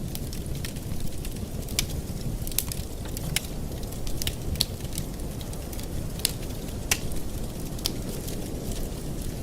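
Wood fire in a fireplace crackling: irregular sharp pops and snaps, a few louder ones, over a steady low rumble.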